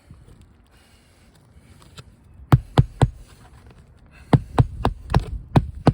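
Hammer driving roofing nails into a shingle: three quick blows, a short pause, then about six more in a steady run.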